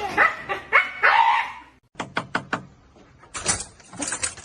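An animal, likely a pet, calling with a wavering pitch. After a short break come four quick sharp clicks, then a fast run of tapping and clattering.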